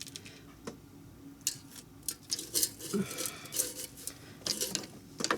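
Kitchen tongs clicking and tapping against a Power Air Fryer XL basket as breaded chicken tenders are laid in, a scatter of light, irregular clicks.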